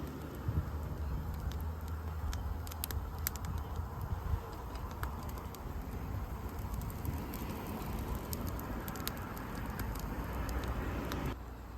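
Wood campfire burning, with many sharp crackles and pops scattered over a low steady rumble. The sound drops suddenly shortly before the end.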